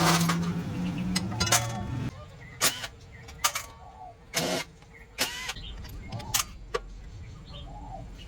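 A small motor hums steadily for about two seconds and then stops. It is followed by a series of separate sharp clanks and taps, like metal tools and parts being knocked and set down while working on a motorbike.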